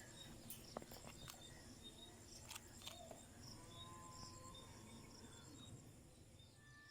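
Near silence: faint background ambience with a steady, high-pitched pulsing chirp like an insect's and a few faint clicks in the first few seconds.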